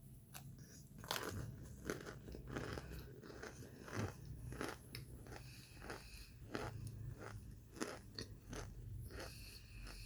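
Biting and chewing crunchy microwave-baked cornstarch chunks: a string of crisp, irregular crunches, one or two a second.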